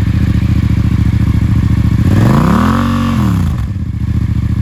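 Yamaha FZ-07's parallel-twin engine breathing through an aftermarket Akrapovic exhaust, idling, with one throttle blip about two seconds in that rises and falls back to idle.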